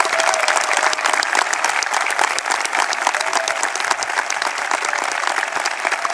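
Audience applauding steadily, many hands clapping at once, with a few faint whistles.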